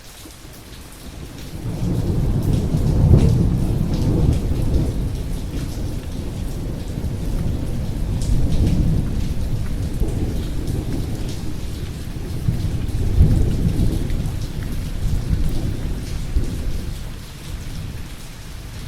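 Rain falling steadily, with a long roll of thunder that rumbles in about a second and a half in, swells several times, and dies away near the end.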